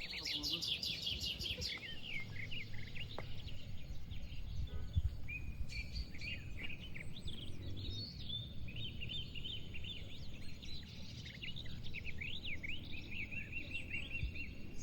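Several birds chirping and twittering in short, quick notes and trills throughout, most busily at the start and again in the second half, over a steady low background rumble.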